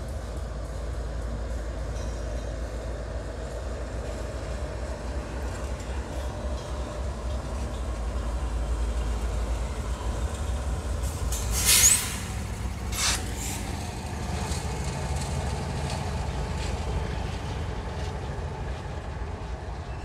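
Double-stack container train rolling slowly past a grade crossing: a steady low rumble of railcars, with a CSX diesel locomotive going by partway through. About twelve seconds in comes a brief loud hiss, with a shorter one a second later, and the rumble is lighter afterwards.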